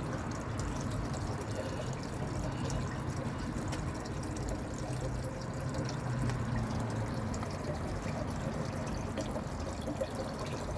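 Water running and pouring steadily over a pet bird having its bath, with scattered drips and small splashes.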